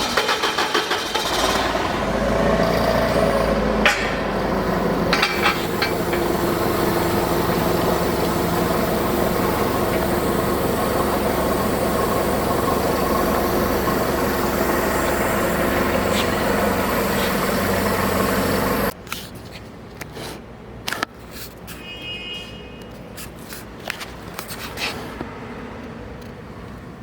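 An engine running steadily, then cut off suddenly about nineteen seconds in, followed by scattered clicks and knocks.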